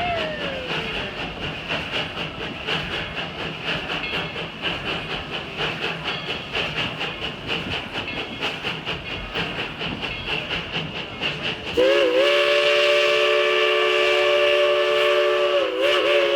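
A steam train running, with a rhythmic chuffing and rail clatter. About three-quarters of the way through, the locomotive's chime steam whistle blows loud and steady, several notes sounding together as a chord. It dips briefly near the end, then sounds again.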